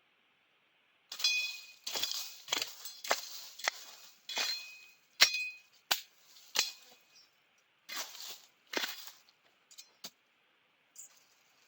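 A series of about a dozen sharp, irregular strikes with a brief metallic ring, spread over about nine seconds and thinning out near the end.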